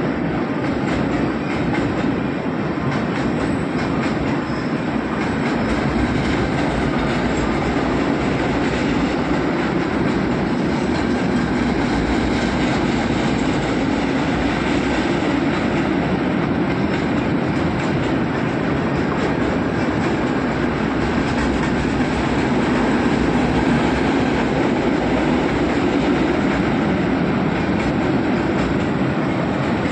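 Passenger coaches of an express train rolling past, a steady, continuous sound of steel wheels running on the rails.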